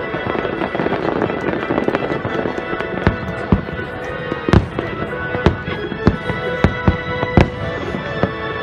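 Aerial firework shells bursting: a dense crackle for the first few seconds, then about nine sharp bangs in the second half. Music with long held notes plays underneath.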